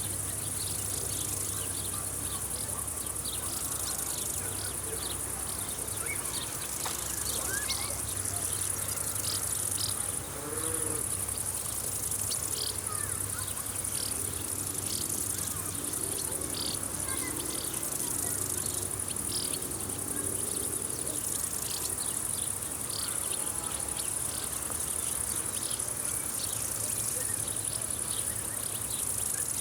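Field insects chirping in summer grass: a steady high-pitched buzz with short chirps repeating about once or twice a second. Faint bird calls now and then, over a low steady hum.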